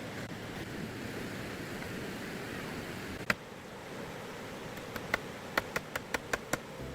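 Steady hiss with sharp knocks: one on its own about three seconds in, then a quick run of about seven, roughly three or four a second, near the end.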